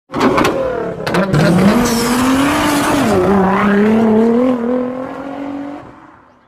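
A car engine revving hard with tyre squeal, as an intro sound effect. It starts abruptly with a few sharp cracks, then holds a steady, slowly wavering engine note that fades out near the end.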